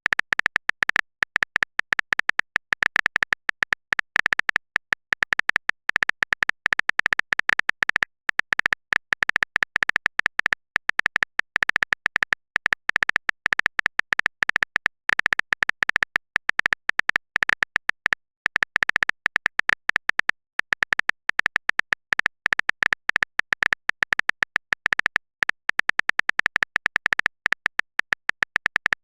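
Continuous rapid clicking, many irregular clicks a second, like a keyboard-typing sound effect for a message being typed out in a chat.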